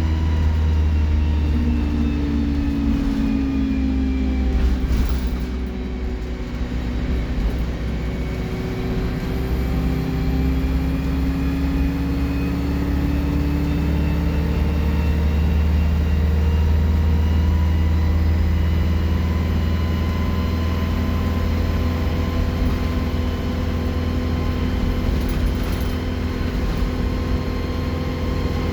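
Alexander Dennis Enviro 200 bus engine running under way with a loud turbo whistle over a deep diesel rumble; the pitch dips in the first few seconds, rises again as the bus picks up speed, then holds steady.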